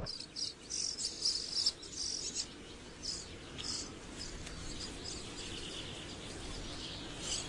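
Small birds calling, a run of short high chirps in quick bursts that thin out after about four seconds into a faint steady high background.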